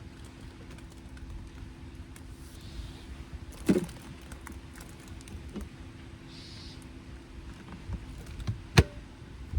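Two sharp knocks, about four and nine seconds in, the first with a brief falling creak, over a steady low hum.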